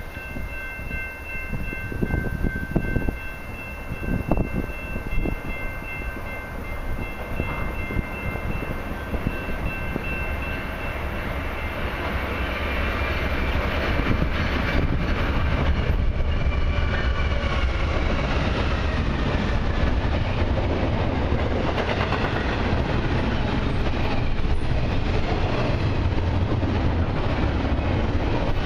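Diesel freight locomotive horn holding a long multi-note chord as the train approaches, ending about eleven seconds in. The rumble of the train then builds and stays loud as the locomotives and double-stacked container cars of a CN intermodal train roll past.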